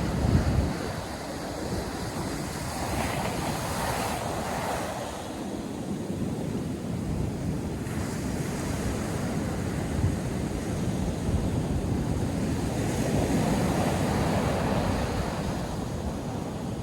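North Sea surf breaking and washing ashore as a steady rushing that swells louder about four seconds in and again near the end, with wind buffeting the microphone.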